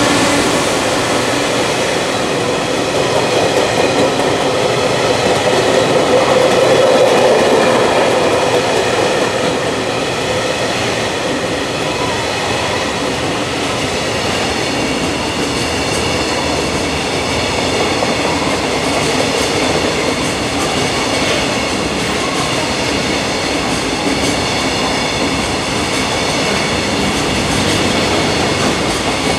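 Freight train of container wagons rolling past, the steady noise of its wheels running on the rails.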